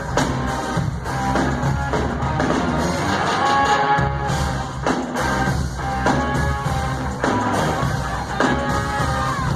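Live concert music at full volume: a band playing, with a heavy bass line and drums.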